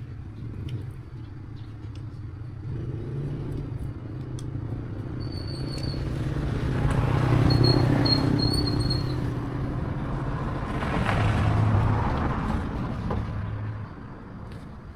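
A small engine running steadily at an even pitch, swelling louder twice, then cutting off near the end.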